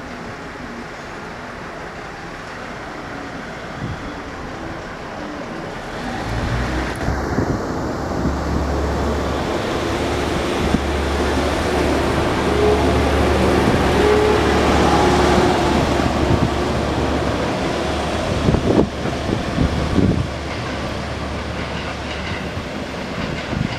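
A passenger train moving through the station. A steady low hum comes in about six seconds in and grows louder toward the middle, followed by a few sharp wheel clicks on the rail joints in the later part.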